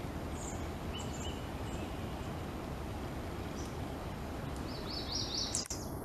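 Scattered short, high bird chirps over steady background noise, with a quick run of rising chirps near the end, then a sharp click as the sound cuts.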